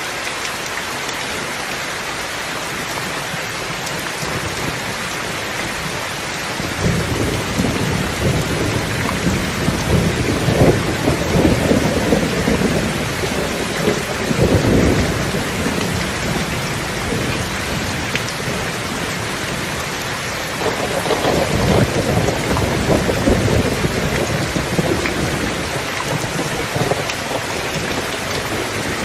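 Steady heavy rain with two rolls of thunder rumbling through it, one about a quarter of the way in lasting around nine seconds and another a little past two-thirds of the way.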